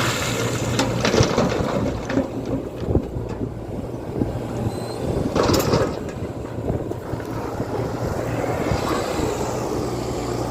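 Tata Hitachi EX120 excavator's diesel engine running steadily, with scattered knocks and clatter and a brief rushing noise about five and a half seconds in.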